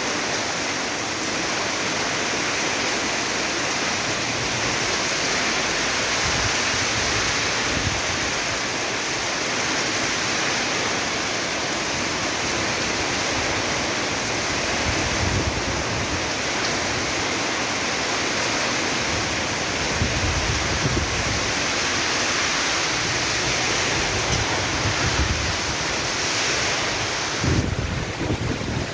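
Heavy rain and wind: a steady hiss of rain, with gusts buffeting the microphone in low rumbles several times.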